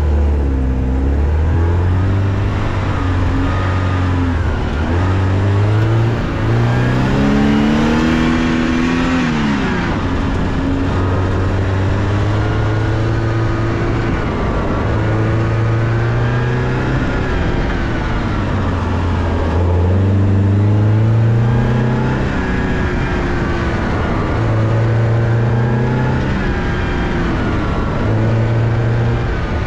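Porsche 944's four-cylinder engine pulling hard on a run, its pitch climbing and dropping over and over as it revs up through the gears and comes off the throttle.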